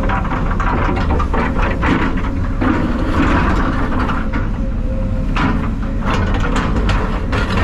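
Heavy diesel engine running steadily, with repeated clatter and knocks over it.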